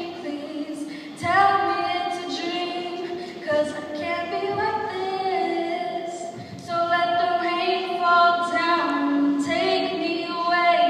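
A female voice singing a slow song solo, gliding between long held notes, with no audible accompaniment.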